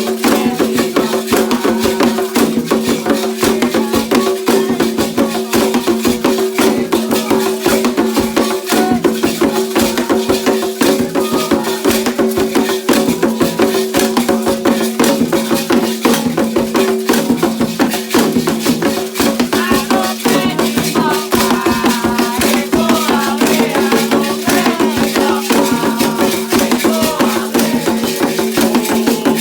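Candomblé ceremonial music: fast, steady percussion with rattles, and voices singing, clearest in the second half.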